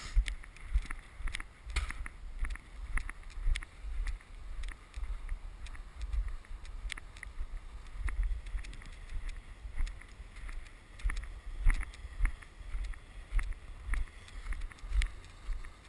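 Strong wind buffeting the microphone in a snowstorm, gusting up and down, with short crunches recurring about two to three times a second, the pace of footsteps in snow.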